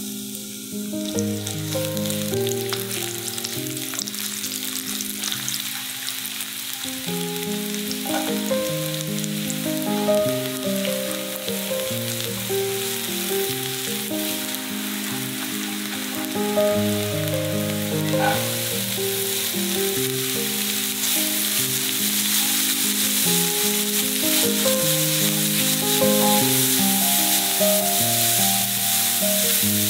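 Onion, shiitake mushrooms and then shredded cabbage sizzling as they fry in oil in a nonstick pan, stirred with a silicone spatula; the sizzle grows louder in the second half. Soft background music plays throughout.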